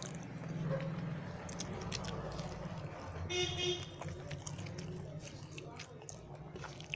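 Close chewing of a person eating rice and cauliflower curry, with many small wet mouth clicks over a steady low hum. A brief horn-like toot sounds about three seconds in.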